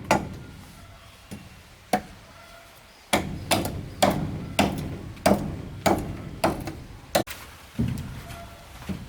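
Hammer blows on wooden planks: a few spaced strikes, a pause of about a second, then a quick run of about eight blows roughly two a second, and two more near the end, each a sharp knock with a short ringing tail.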